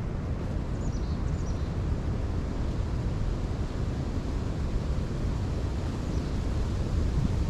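Strong wind buffeting the microphone outdoors, a steady low rumble, with a few faint high bird chirps about a second in and again near the end.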